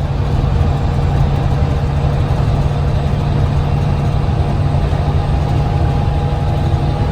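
Heavy farm or truck engine running steadily at a constant speed, a loud even low hum with no change in pace.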